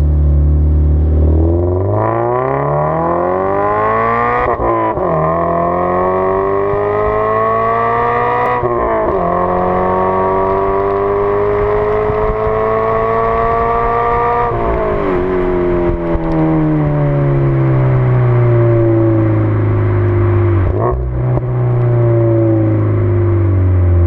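Toyota GT86's flat-four boxer engine through a 5Zigen aftermarket exhaust, accelerating hard through three gears, with the pitch rising in each gear and dropping at two quick upshifts. About fifteen seconds in it comes off the throttle and the revs fall slowly on the overrun, with one short rev blip near the end, like a downshift.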